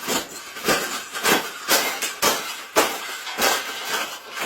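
Repeated banging strikes, about eight in a row at roughly two a second, each with a harsh rattling tail.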